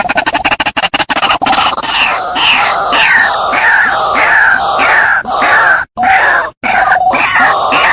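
White-breasted waterhen calling loudly. It starts with a rapid stuttering series of croaks, and from about a second and a half in settles into repeated 'ruak' calls, each falling in pitch, roughly one every two-thirds of a second.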